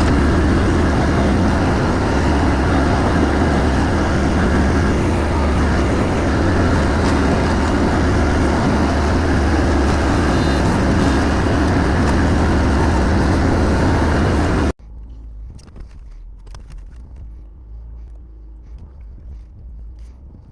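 Motor vehicle engine running steadily with heavy low hum and road or cab noise. It cuts off abruptly about 15 s in, leaving a much quieter background with a few faint knocks.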